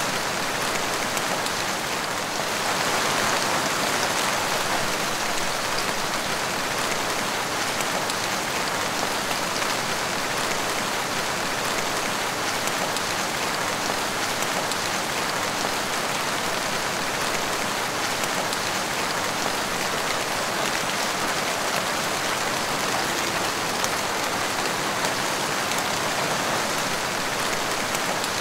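Steady rain falling and splashing on a wet tiled porch floor, a little heavier about three seconds in.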